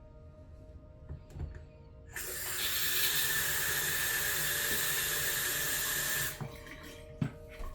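Bathroom sink faucet turned on, water running steadily for about four seconds through a swivel faucet adapter, then shut off. There are a couple of light knocks before it starts and one after it stops.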